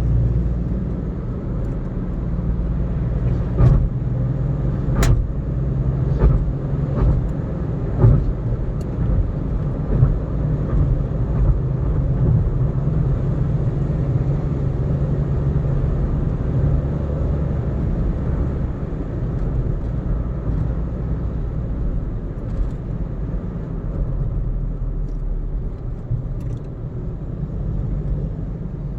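Car driving at speed on an expressway: steady low road and engine rumble. Several sharp knocks come through between about three and eleven seconds in, the loudest about five seconds in.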